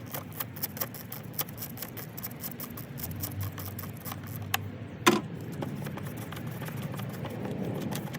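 Ratchet with a 10 mm socket clicking rapidly as it undoes a bolt: an irregular run of many short clicks, with one louder knock about five seconds in.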